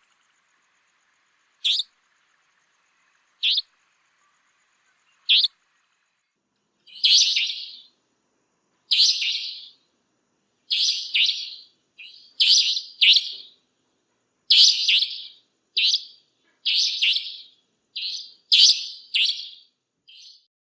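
A nightjar calling: short, sharp, high calls about every two seconds, then from about seven seconds in a quicker run of longer calls, some of them in pairs.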